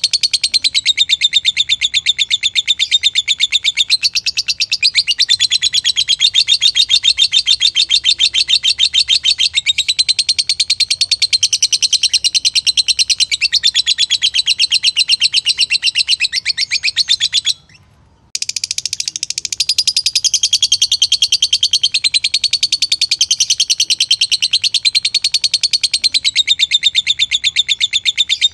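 Lovebird chattering in a long, unbroken run of rapid high chirps with a wavering pitch. It breaks off for under a second a little past halfway, then resumes.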